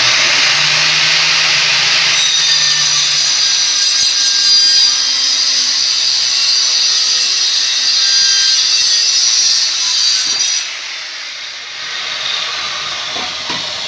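Electric power saw cutting through a hardwood board: a loud, steady sawing noise for about ten seconds, then running on more quietly near the end.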